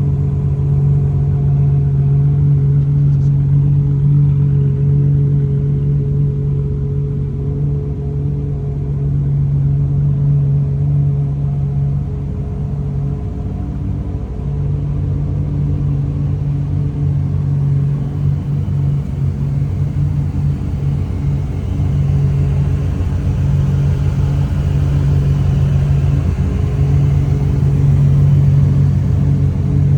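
High-performance car engine idling with a steady, deep note that holds its pitch, dipping briefly a couple of times.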